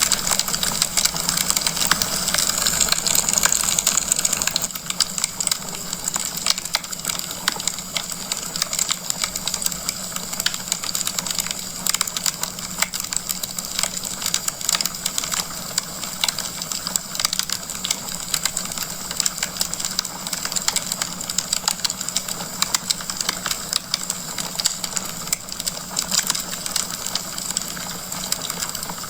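Logs burning in a fireplace, crackling: a steady hiss with dense, irregular pops and snaps, a little louder in the first few seconds.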